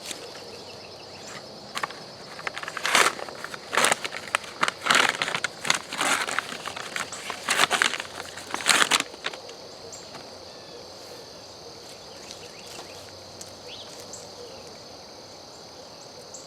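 Hands breaking up a young potted fruit tree's root ball: soil and roots crunching and tearing in a string of rough bursts, stopping about nine seconds in.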